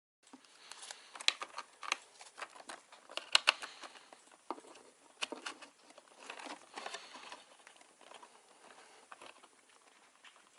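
Hands handling small computer parts during a PC build: irregular light clicks, taps and rustling, with the sharpest clicks in the first half, thinning out toward the end.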